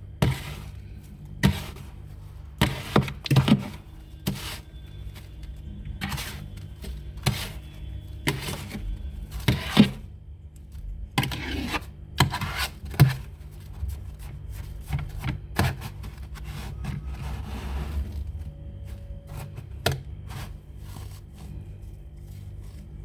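Built-up frost being scraped off the inside of a freezer. Irregular scraping strokes and knocks come in bunches, then thin out in the second half.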